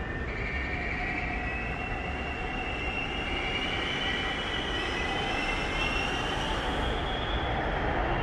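Electric commuter train running into an underground station: a steady rumble of wheels on rails with a faint motor whine that slowly rises in pitch.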